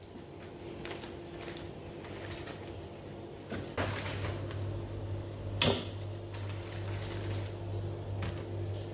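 Kitchen handling noises: scattered knocks and clatters of objects being set down or moved, the loudest a bit over halfway through. A steady low hum comes in about four seconds in.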